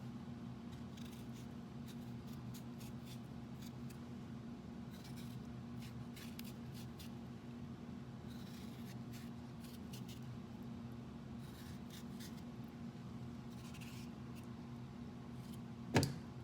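Faint, irregular scraping strokes of a blade peeling the skin off a chocho (chayote), over a steady low hum. One sharp knock comes near the end.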